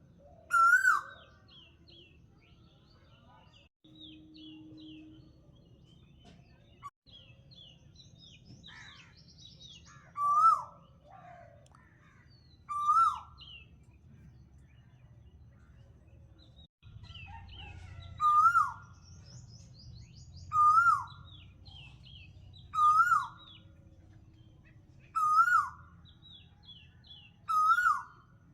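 Birdsong: one bird repeats a loud, short whistled call eight times, mostly every two to three seconds, while other birds chirp and trill faintly in the background.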